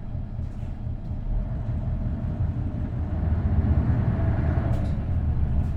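Isuzu Erga city bus's V8 diesel engine and road noise while the bus is driving, getting louder over the first few seconds and then holding steady.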